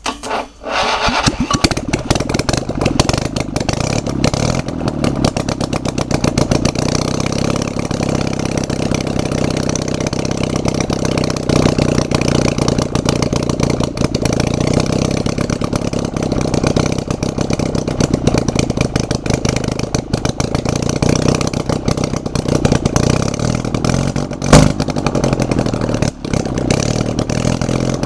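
Freshly rebuilt Panhard air-cooled flat-twin engine catching about half a second in and then running, with one sharp bang a few seconds before the end. The owner puts its remaining roughness down to the carburettor still needing tuning.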